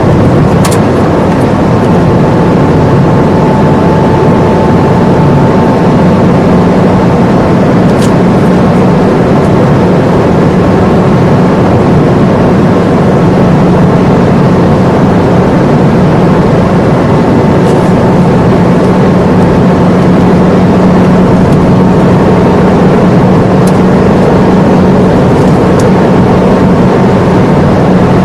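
Ford Fiesta heard from inside the cabin while driving at a steady speed: an even engine hum that holds its pitch, under a loud, continuous rush of tyre and wind noise.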